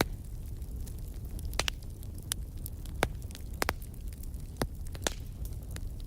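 Fire burning in a fireplace: a steady low rumble with sharp crackles and pops at irregular intervals, several a few seconds.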